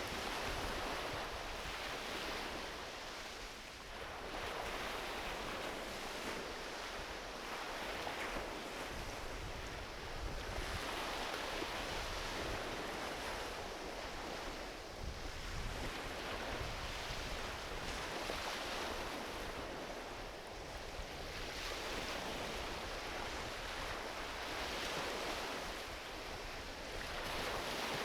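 Gentle ocean waves washing onto a beach, the wash swelling and fading every several seconds. A low rumble of wind on the microphone runs underneath.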